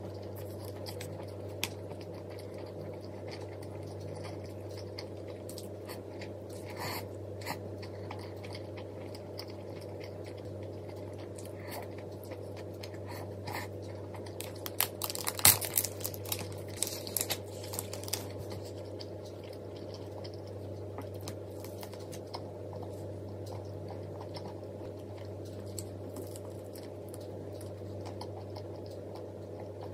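A person eating: chewing and crunching with scattered small clicks, and a cluster of louder clicks and crunches about halfway through, over a steady low hum.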